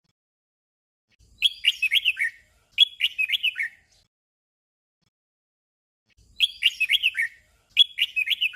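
Red-whiskered bulbul singing its short 'double' song: a quick phrase of warbled notes given twice in close succession. The pair comes twice, with a pause of nearly three seconds between, and the last phrase is cut off at the end.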